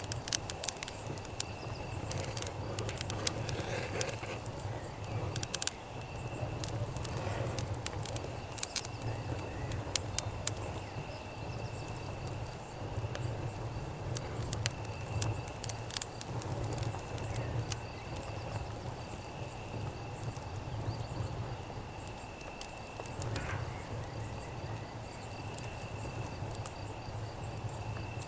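Campfire crackling with scattered sharp pops, more of them in the first half, over a steady chorus of night insects: crickets with an on-and-off high trill. A soft low rumble pulses underneath.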